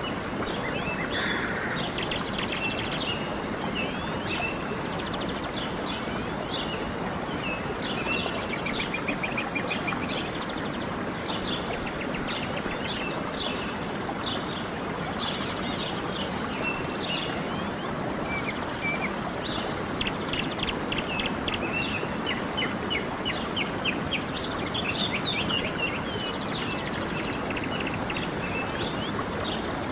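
Small birds chirping and trilling repeatedly, with a few fast rattling runs of notes, over the steady rush of a stream.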